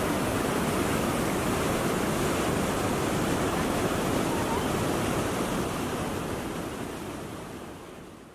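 Waterfall rushing as a steady, loud roar of falling water that fades out over the last couple of seconds.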